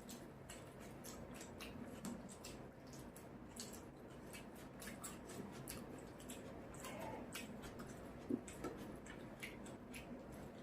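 Close-up eating sounds: many small wet mouth clicks and chewing smacks as rice and fish curry are eaten. There is one sharper tap a little past eight seconds.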